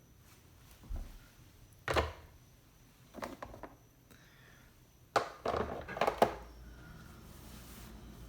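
Parts of a plastic insulated beehive being handled and set down: a few single knocks, then a quick cluster of knocks and clatter about five seconds in.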